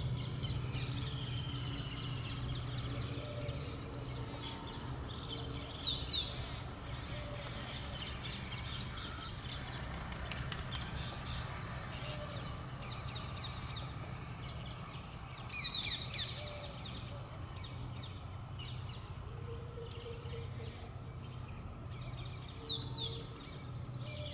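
Birds calling in the tree canopy: three bursts of sharp, shrill calls, a quarter of the way in, around the middle, and near the end, over fainter chirping and a steady low hum.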